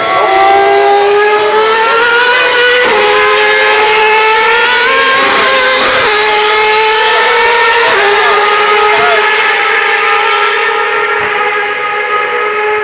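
Superleague Formula single-seater race car engines at high revs, climbing in pitch and briefly dropping at each upshift, about three shifts in all.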